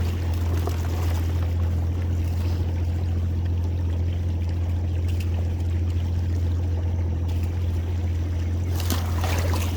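Boat motor running steadily at low speed as a low, even hum, with water trickling and splashing over it.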